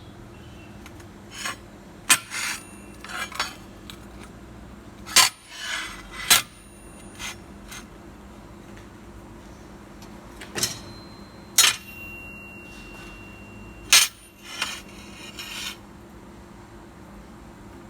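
Light metal pieces clanking and clinking against each other and against metal, about a dozen sharp knocks in irregular clusters, some ringing briefly. A steady machine hum runs underneath.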